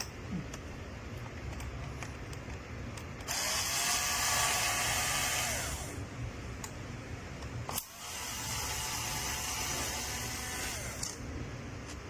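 Small high-speed electric motor, like a power screwdriver's, running in two bursts of about three seconds each, about two seconds apart, winding down at the end of the first. A few light clicks come between the bursts.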